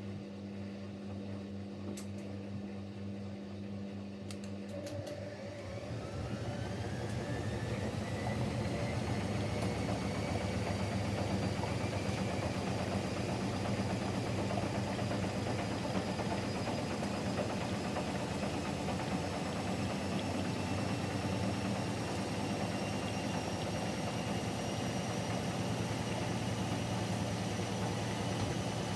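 Siemens Siwamat Plus 574 washing machine starting its final spin. A steady hum for the first few seconds gives way to the drum motor's whine, which rises in pitch and gets louder as the drum speeds up, then settles into a steady spin.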